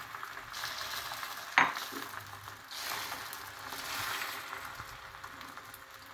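Beaten egg sizzling on a hot dosa griddle as a plain omelette cooks, the sizzle slowly dying down, with one sharp knock of a utensil about one and a half seconds in.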